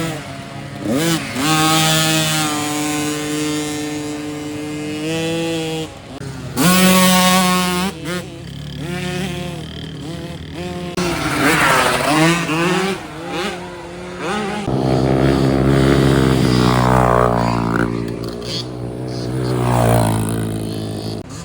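Dirt bike engines revving hard and shifting through the gears, pitch climbing and dropping as bikes race past several times.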